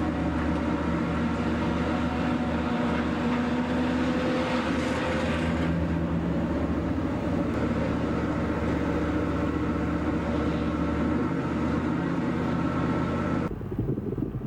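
Engine running steadily, with a low hum and a noisy haze over it; it cuts off suddenly near the end, giving way to a rougher, wind-like noise.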